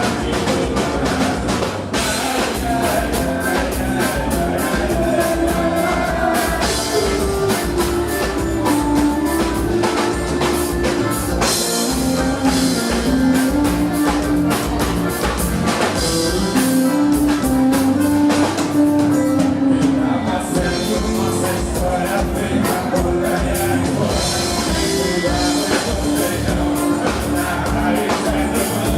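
Band music with a steady drum beat under a melodic lead line.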